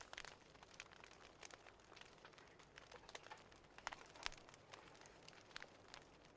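Faint crackling of a wood fire: irregular small pops and snaps over a soft hiss, the louder pops about four seconds in.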